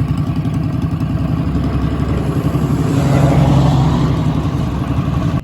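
Small minibike engine running steadily, swelling a little louder about three seconds in, then cutting off suddenly at the end.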